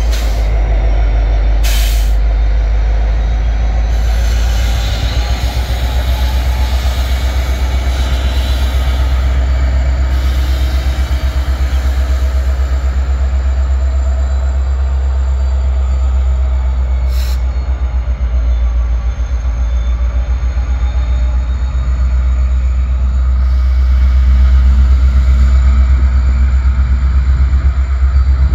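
Norfolk Southern freight train rolling past: a steady heavy rumble of locomotives and freight cars with faint high wheel squeal, two sharp clicks, and the sound growing louder near the end.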